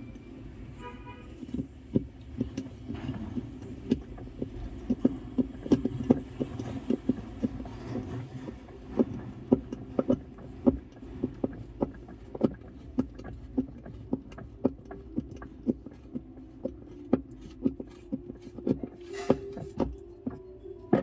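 Hand tool tightening the centre screw of a washing machine's pulsator clockwise: a run of sharp, irregular metallic clicks, about two or three a second, over a steady low hum.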